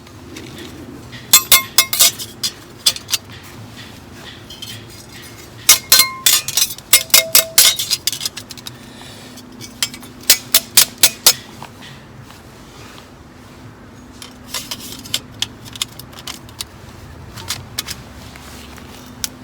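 Metal camp gear, such as cookware and utensils, being handled and packed: three flurries of sharp, ringing clinks and clatters, then a few lighter taps.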